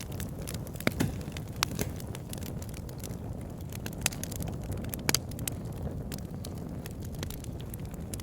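Campfire burning: a steady low rumble of flames with scattered sharp crackles and pops of burning wood.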